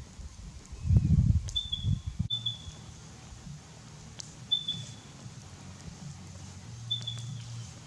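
A bird's short, high chirp repeated four times a couple of seconds apart over outdoor bush ambience. A low rumble, likely wind on the microphone, comes through in the first two seconds, and there are a few faint sharp clicks.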